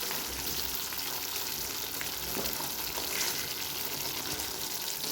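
Chicken curry with cooking cream simmering in the pan over the heat: a steady sizzle with a few faint clicks.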